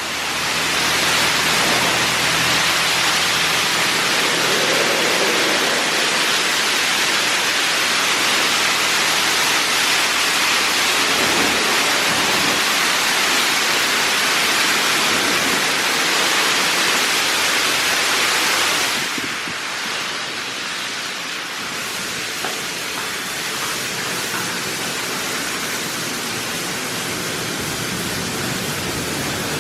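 Touchless LaserWash 4000 car wash spraying the car: a loud, even hiss of water spray that drops to a lower level about two-thirds of the way through and carries on.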